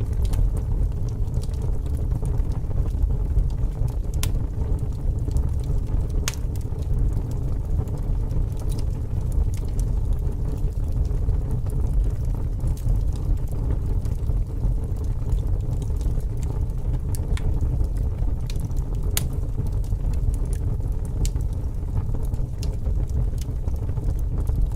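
Fire crackling: a steady low rumble of flames with sharp, irregular crackles and pops scattered throughout.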